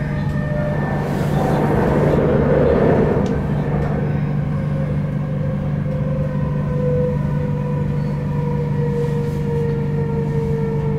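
Interior running noise of an Sm5 Stadler FLIRT electric commuter train at speed: a steady low hum and rushing rail noise that swells briefly about two seconds in. In the second half, a whine slowly falls in pitch.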